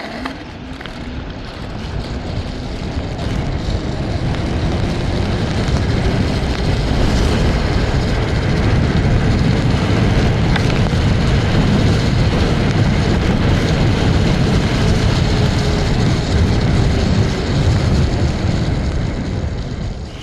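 Wind rushing over the microphone and tyres hissing on a wet road as a TRBK-M2 electric scooter gets up to speed, cruises and slows near the end. A faint motor whine rises with speed, holds, and drops as it slows.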